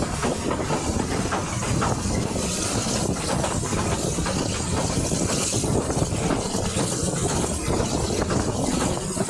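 Passenger train carriage running along the track, heard from its open window: a steady rush of air with constant irregular rattling and knocking of the wheels and coach.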